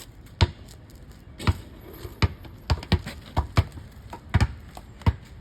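A string of about ten sharp taps or knocks at uneven intervals, some close together in pairs, over a low steady background hum.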